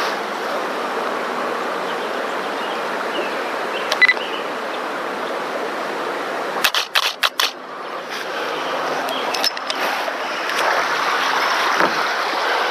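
Creek water running steadily, with one sharp click about four seconds in and a quick run of clicks a couple of seconds later.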